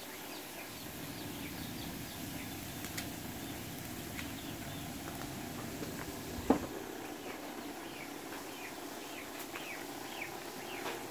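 Small birds chirping in short, quickly falling notes, repeated throughout over a faint steady background. One sharp knock about six and a half seconds in is the loudest sound.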